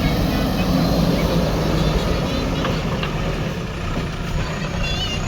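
Diesel engine of heavy machinery running steadily at a low, even hum.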